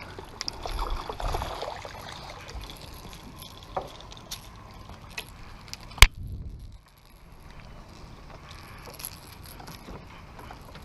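Scattered light clicks and rattles, with one sharp knock about six seconds in.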